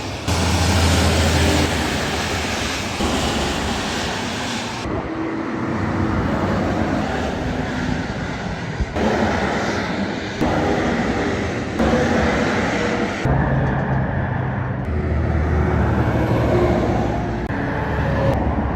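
Semi trucks driving past on a road: diesel engine and tyre noise in a run of short clips, the sound changing abruptly at each cut.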